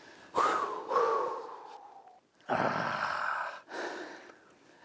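A man breathing out hard twice in long, heavy sighs, the first about a third of a second in and the second about halfway through.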